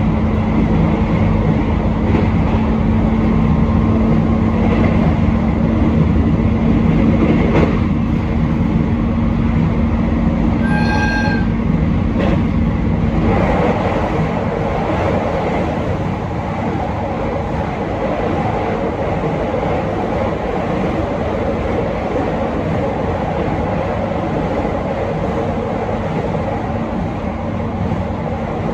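Train running along the track, with a steady low hum that drops away about thirteen seconds in while the running noise carries on. A short single horn toot sounds about eleven seconds in.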